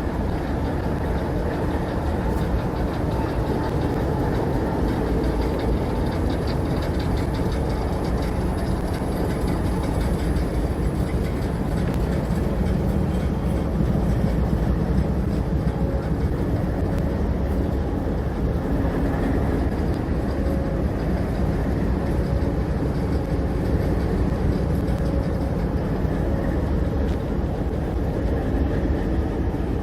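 Alco FPA diesel locomotive engine idling with a steady, even running noise and a low hum.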